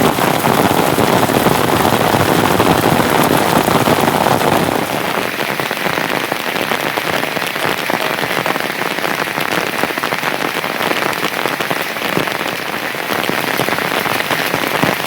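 Heavy rain falling steadily, a dense patter of drops that eases slightly about five seconds in.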